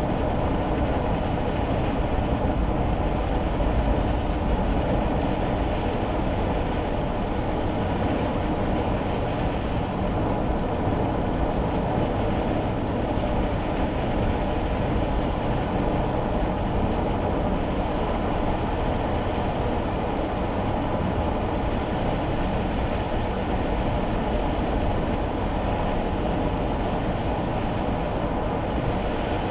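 Steady low rumble of road and engine noise heard inside a kei car's cabin, driving on wet roads in the rain.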